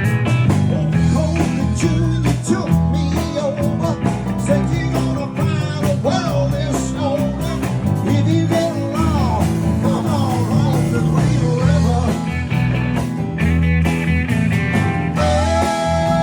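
Live band playing blues-rock: electric guitar, bass and drums, with a lead line of bending notes in the middle.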